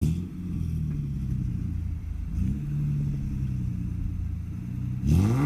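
Car engine running at a low, steady idle, with a brief blip of the throttle about halfway through, then a sharp rev climbing in pitch near the end.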